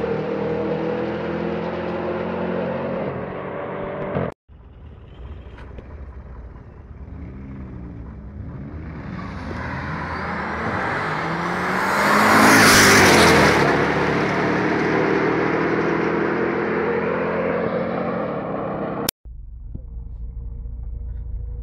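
High-performance car engine at full throttle, building to a loud peak as the car passes close by, its pitch bending as it goes and then falling away. Before it, an engine pulling hard at steady revs cuts off suddenly; near the end, a low steady idle rumble.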